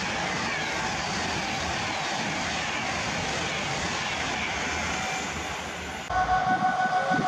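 Avanti West Coast express passenger train passing through at speed, a steady rush of wheel and air noise that eases as the last coach goes by. About six seconds in, it cuts abruptly to a Class 66 diesel freight locomotive running with a steady whine over a low rumble.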